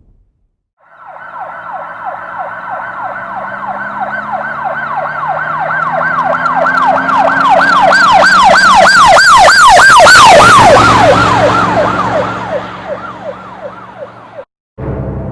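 Emergency vehicle siren sound effect wailing in fast sweeps, about three a second, over a low engine hum, growing louder as it approaches and then dropping in pitch and fading as it passes. It cuts off abruptly near the end, and music starts.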